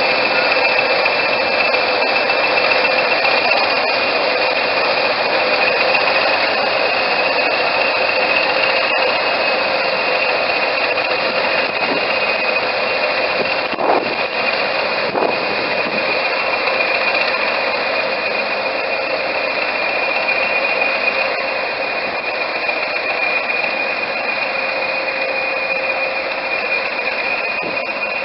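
Diesel train running steadily, a loud even mechanical noise with a constant high-pitched whine over it.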